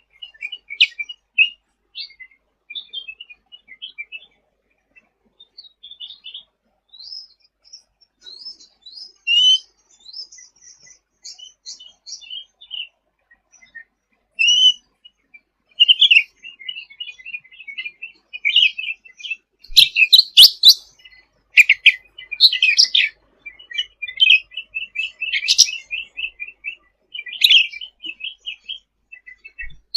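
Cucak ranting singing in full voice, a fast chatter of short, high chirps and trills. It grows louder and busier about two-thirds of the way in.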